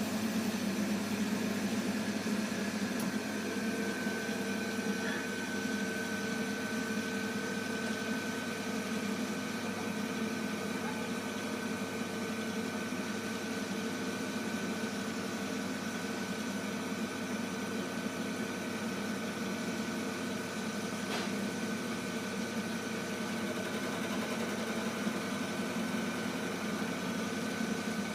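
Heating boiler humming steadily, with a faint high steady tone joining about four seconds in.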